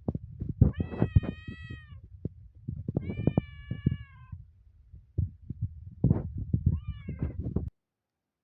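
Domestic cat meowing three times: two long meows close together, then a shorter one near the end. Underneath is a low, throbbing rumble with soft knocks close to the microphone, and everything cuts off suddenly near the end.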